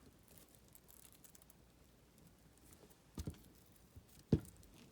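Quiet handling while paper is glued on a craft table, with two light knocks about three and four seconds in, the second louder.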